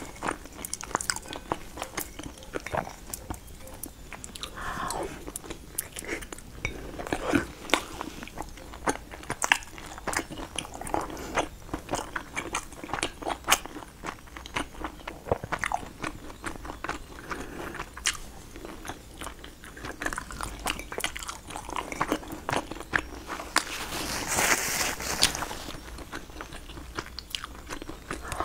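A person eating close to the microphone: biting and chewing soft food, with many short clicks and mouth smacks, and a longer smacking or slurping sound near the end.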